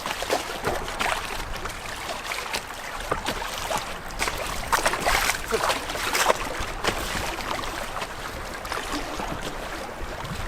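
Canoe being paddled through choppy lake water: irregular splashing and sloshing of paddle strokes and small waves against the hull.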